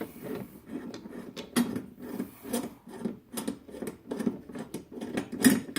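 Socket wrench ratchet working as 12 mm bolts are backed out of a bracket, a short rasping click about three times a second, unevenly spaced.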